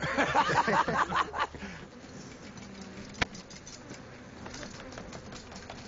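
Africanized honeybees buzzing as a faint steady hum, with rustling and a busier, louder stretch in the first second and a half and one sharp click about three seconds in.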